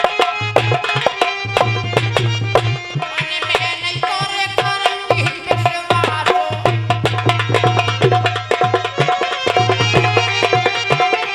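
Instrumental interlude of North Indian Dhola folk music: fast hand-drum strokes with deep booming bass notes and a melodic line above them.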